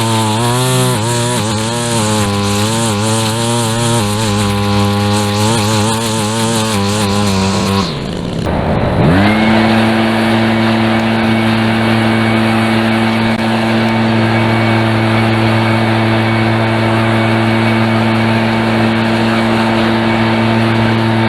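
Small gasoline engine of a lawn power tool running under load, its speed wavering. About eight seconds in it drops briefly, then spins back up to a steady high speed with a thin high whine.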